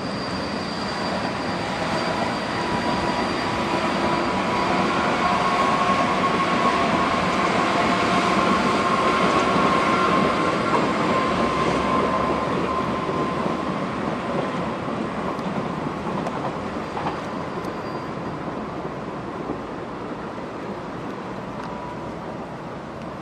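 Electric trains running past on the track: a yellow JR commuter electric train and a slow freight of Wam 80000 two-axle boxcars hauled by an EF65 electric locomotive. A high steady whine rides over the rail noise, swelling through the middle and fading toward the end.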